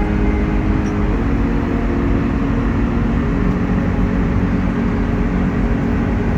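Airbus A320neo cabin noise: a steady drone of engines and airflow with a low hum.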